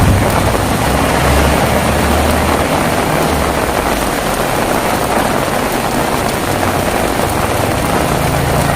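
Heavy rain falling steadily, with a low rumble underneath in the first few seconds and again near the end.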